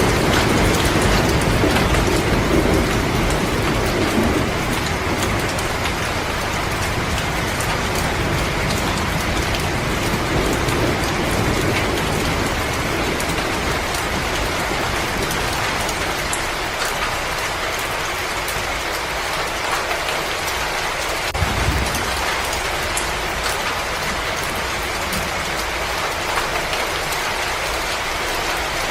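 Wood fire crackling in a fireplace, with many small pops over a steady hiss. A low rumble in the first half fades away, and there is one low thump about 21 seconds in.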